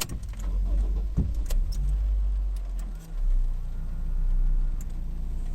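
Low, steady rumble of a road vehicle in motion, dipping briefly about three seconds in, with a few light clicks and rattles.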